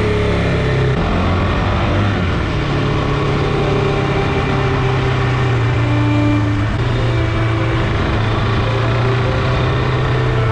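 KTM 390 Adventure's single-cylinder engine running under way at a steady cruise, with wind and road rush. The engine note rises a little about two seconds in and then holds steady.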